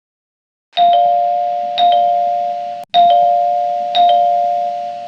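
Electronic two-tone ding-dong chime sounding four times, about once a second, each strike ringing and fading; the sound cuts off abruptly just before the third chime.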